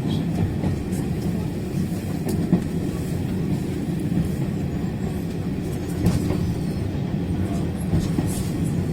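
Train running along the track: a steady low rumble with a few short knocks from the wheels and coupling gear.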